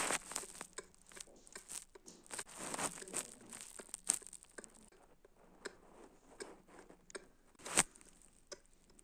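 Irregular small clicks, crackles and rustles at close range, with a sharp crackle right at the start and the loudest one near the end; no engine sound.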